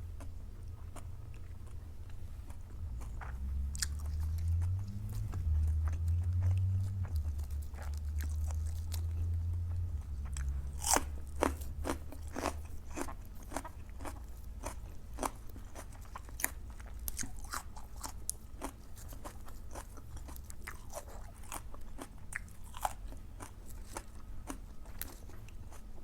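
A person chewing and biting crunchy food close to the microphone, with a run of sharp crunches from about the middle on. A low rumble sits under the first part.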